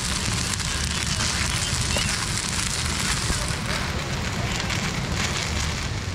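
Noodles and sausage sizzling as they fry in a camping cookset pot on a portable butane gas stove, stirred with tongs, a steady crackling hiss.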